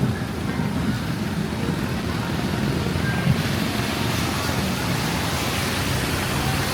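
Steady rain with road traffic hissing and rumbling on wet pavement; the hiss grows brighter about halfway through.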